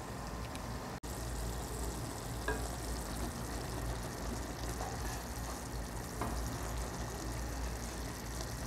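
Chicken liver and onions sizzling steadily in their own released juices in a stainless steel pan, stirred with a wooden spatula that scrapes lightly against the pan a couple of times; the liquid is being cooked down.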